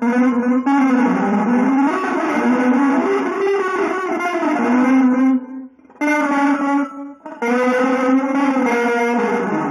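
Electric guitar played through effects in a free, improvised style, holding long notes that bend and slide in pitch, with two brief breaks in the line a little past halfway.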